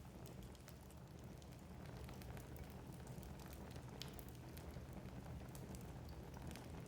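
Wood fire burning in a fireplace, crackling with frequent small, irregular pops over a low, steady rumble of flame.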